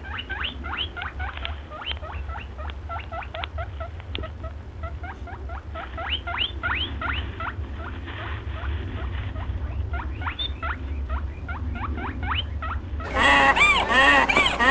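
Rapid high squeaks from a small animal, several a second, over a low steady hum. Near the end, a much louder honking call cuts in.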